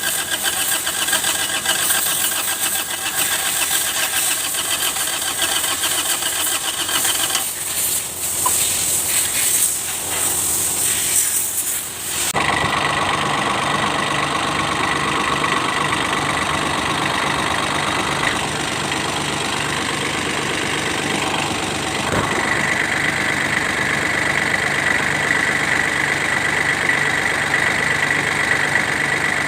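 Kubota D905 three-cylinder diesel cranking on its starter for about twelve seconds before it abruptly catches and settles into a steady run. The long crank is the hard starting this engine suffers from.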